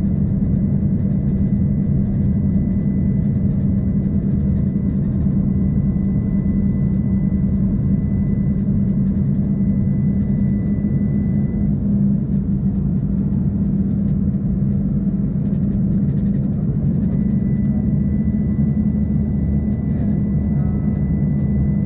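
Steady cabin drone of an Embraer ERJ-140 in flight, from its rear-mounted Rolls-Royce AE3007 turbofan engines and the airflow over the fuselage. A faint high whine sits over it, dropping out for a few seconds midway.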